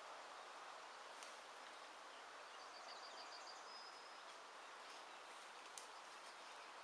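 Faint steady outdoor hiss, with a small bird's short high trill about three seconds in that ends on a held note. Now and then a faint click.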